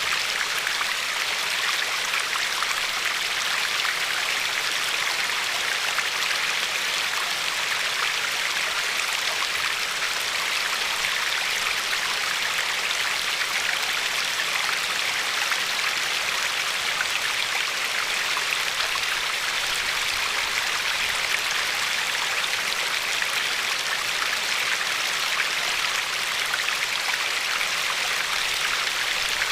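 River water flowing and lapping along a pebbly shore: a steady, even rush of water with no pauses.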